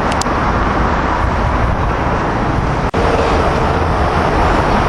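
A passenger train passing at speed: a loud, steady roar of wheels on rail and rushing air. The sound drops out sharply for an instant about three seconds in.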